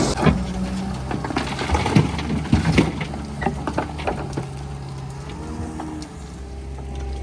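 Diesel engine of a JCB 3DX backhoe loader running steadily. Over the first three seconds there is a run of knocks and clatters, like earth and clods tumbling from the bucket into a steel truck bed; after that the engine runs on alone.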